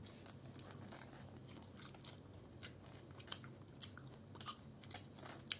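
Fish snack being chewed with the mouth, with faint irregular crunches every second or so over a low steady hum.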